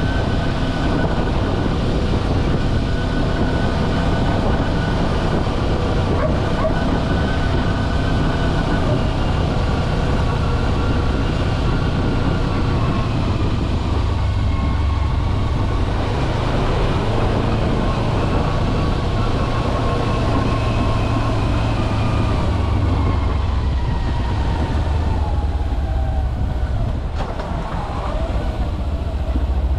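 Kawasaki Versys-X 250's 249 cc parallel-twin engine running steadily under way, its pitch falling gradually in the second half as the bike slows.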